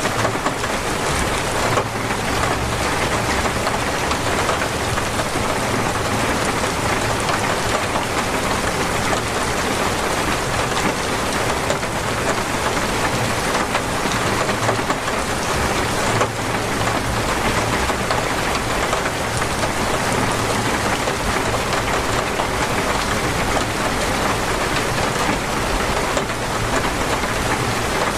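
Heavy, torrential rain falling steadily on surfaces, a dense even hiss with no breaks.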